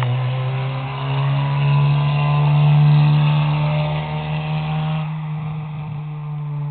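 2002 VW Jetta 2.0's inline-four through a straight-piped catback exhaust, droning loudly at steady revs as the car drives past after a gear change. It is loudest about three seconds in and fades somewhat near the end.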